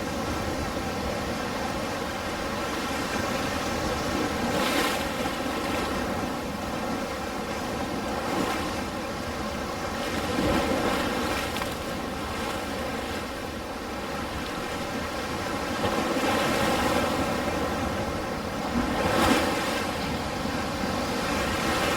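Ocean surf: waves breaking and washing in as a steady rush that swells and eases every few seconds, with a brief louder crash about five seconds in and another near the end.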